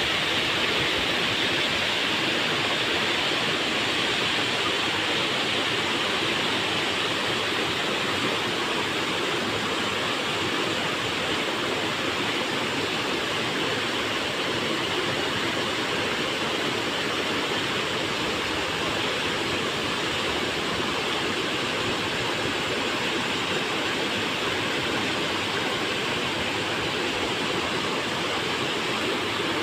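River water flowing, a steady rushing noise with no breaks.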